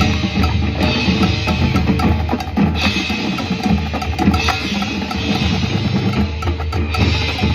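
Marching band playing its field show music, with sustained low brass and winds under a busy drum and percussion part.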